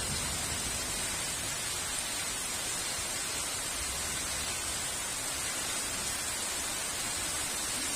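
Steady heavy rain, an even hiss of falling rain with no thunder.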